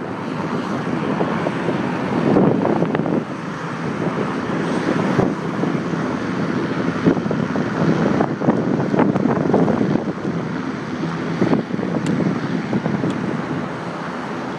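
Wind and road noise on a handlebar-mounted iPhone 4's microphone while cycling: a steady, rough rush with short knocks and rattles scattered through it.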